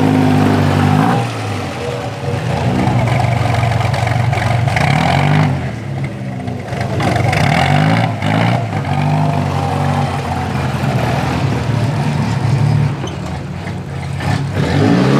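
Engine of a vintage open-wheeled racing two-seater running at low speed as it creeps past, the revs rising and falling several times as the throttle is blipped.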